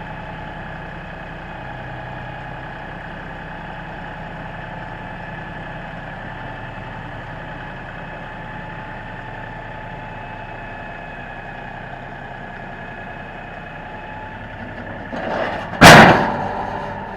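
LS tractor engine running steadily at idle. Near the end a short clatter is followed by one loud bang.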